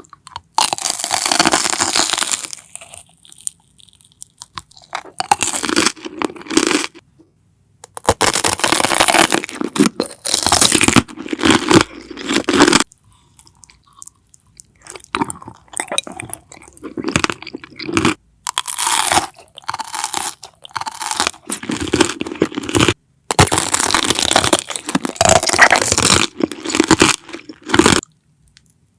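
Close-miked crunching and chewing of crisp food, in loud bursts of a few seconds each with short pauses between them.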